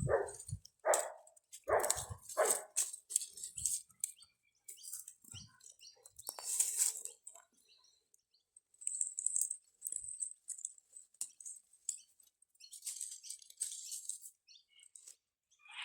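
A dog barking, a run of short barks in the first few seconds, followed by scattered higher sounds with quiet gaps between them.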